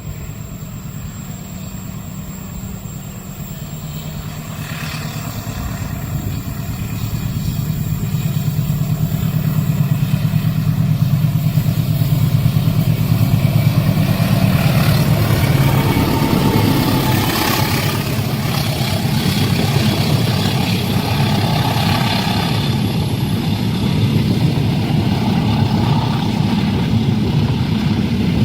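Diesel locomotive-hauled train approaching and passing: a low engine rumble builds steadily for about a dozen seconds, then holds loud as a rushing rattle of wheels and carriages joins it.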